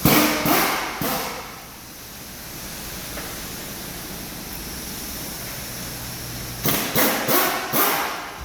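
Range Rover's supercharged V8 engine idling, revved in short blips of the throttle: two or three right at the start, then steady idle, then four quick blips near the end.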